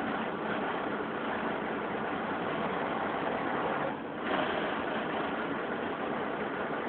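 MAN TGA 410 truck's diesel engine idling steadily, with a brief dip in level about four seconds in.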